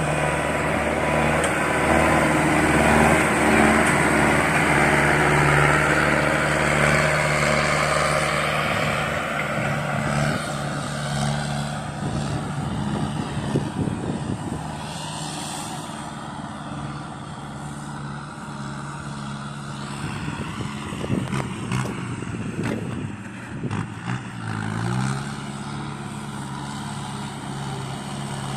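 Kubota farm tractor diesel engine running steadily under load while working soil. The engine note sags briefly and recovers about four seconds before the end.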